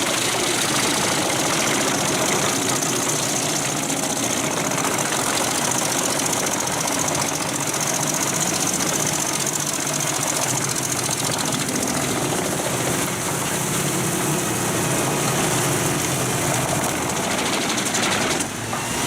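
Pezzolato PTH 1400/1000 Allroad self-propelled drum wood chipper working under load: its Volvo engine running hard while the steel drum chips logs, a steady, dense din.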